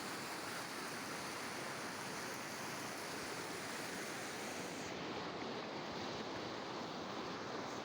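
Steady rush of a swollen river running full to its banks after heavy rainfall.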